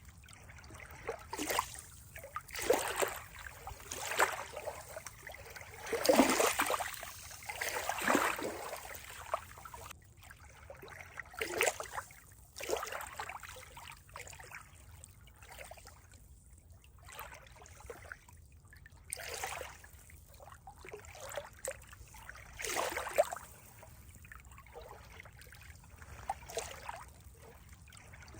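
Water trickling and splashing in irregular surges, the strongest a few seconds in.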